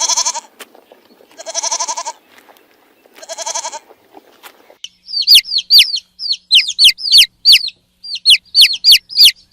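Animal calls: three drawn-out, quavering calls about a second and a half apart, then from about halfway in a quick run of high, sharp chirps that fall steeply in pitch, mostly in pairs.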